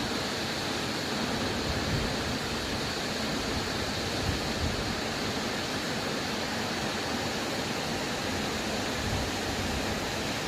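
Steady rush of water from the Hundru Falls waterfall on the Subarnarekha River.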